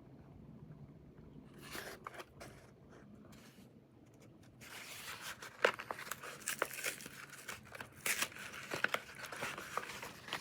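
Plastic MRE packaging being handled, then crinkled and torn open: a few soft rustles and clicks at first, then a busy crackling rustle with sharp snaps from about halfway on.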